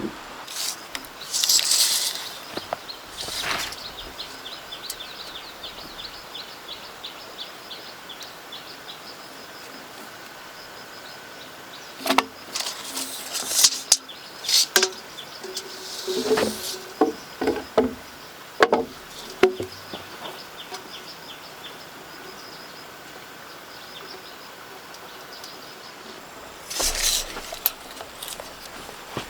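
Outdoor ambience: a rapid, high chirping trill runs for several seconds in the first third. Scattered knocks, clicks and rustles follow, bunched in the middle, with a couple of short noisy bursts.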